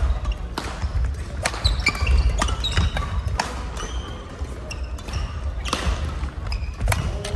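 Badminton rallies in a busy sports hall: rackets cracking against shuttlecocks at irregular times, with short high shoe squeaks on the court floor and a low hall rumble.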